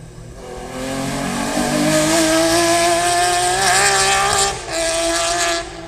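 A car engine accelerating hard, its pitch climbing steadily, with a brief drop at a gear change about four and a half seconds in, then pulling again before ending abruptly.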